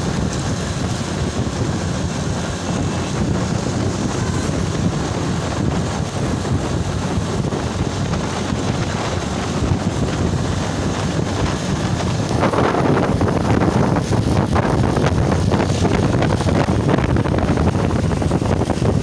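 Motorcycle running on the move, with heavy wind rushing over the microphone; the rush grows louder about twelve seconds in.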